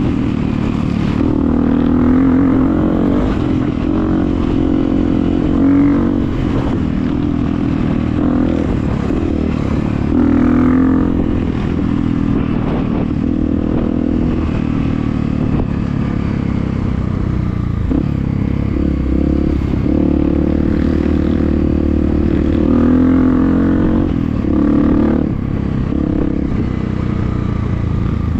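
Honda CRF250F dirt bike's single-cylinder four-stroke engine running hard under load, its revs rising and falling again and again, with some clatter.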